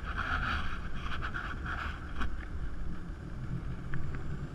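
Jet ski engine running over the water, with wind on the microphone.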